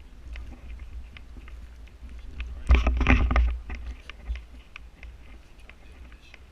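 Footsteps and rustling on a narrow forest trail, heard through a worn action camera with low wind rumble on the microphone. About three seconds in, a louder burst of noise lasts about a second.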